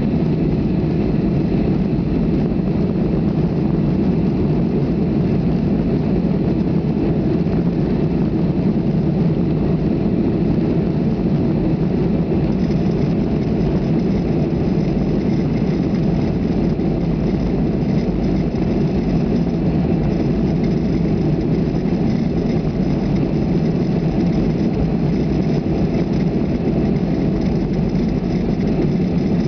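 Steady cabin noise of a Boeing 737 in flight: the CFM56 turbofan engines and rushing airflow heard from a window seat inside the cabin, a deep, even rumble with a faint high whine coming in about twelve seconds in.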